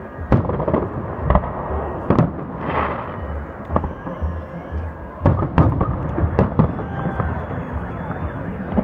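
Fireworks salute: aerial shells bursting with sharp, irregular bangs, several close together about five to seven seconds in.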